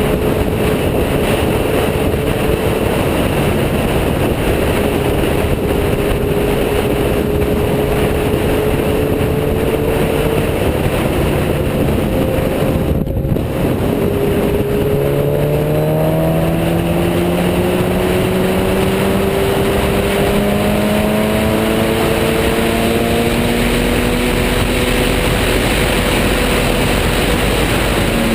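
Motorcycle engine running under heavy wind rush on the microphone while riding. The engine holds a steady pitch, dips briefly about halfway, then climbs slowly in pitch as the bike accelerates.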